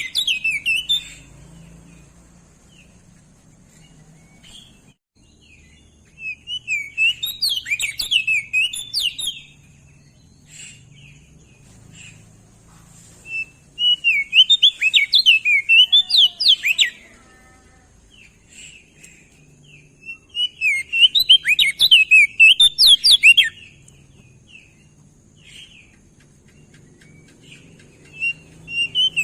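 Crested white-eye (opior jambul) singing: a song of rapid, twittering warbled notes lasting about three seconds, repeated four times, with short pauses between phrases.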